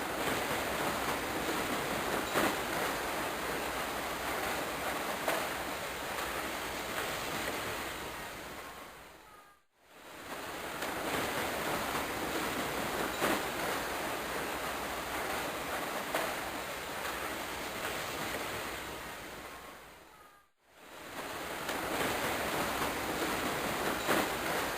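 Steady hiss of background noise with a few faint clicks, fading out and back in twice.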